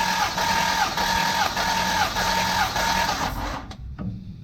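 1958 Jaguar XK150's 3.4-litre straight-six engine being cranked over on its starter motor for a compression test of number 4 cylinder, throttle held open. The starter runs in an even rhythm of rise and fall about twice a second, then stops abruptly about three and a half seconds in.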